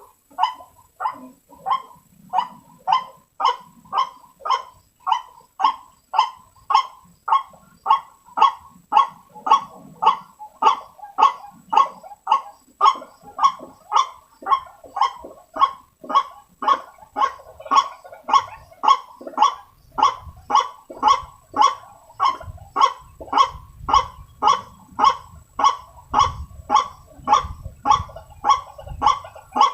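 White-breasted waterhen (ruak-ruak) call played as a trapping lure: a monotonous run of short, identical calls repeated about twice a second.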